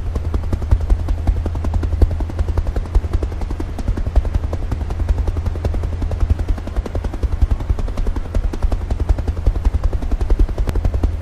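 Helicopter main rotor chopping: a fast, steady run of low thuds.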